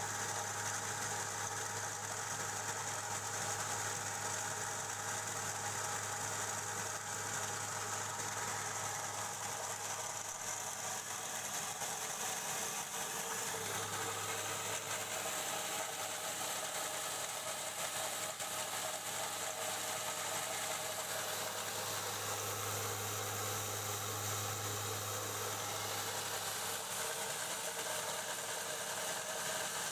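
Mini rice huller (LM 100 type) driven by a 5 hp electric motor, running steadily with a constant machine hum.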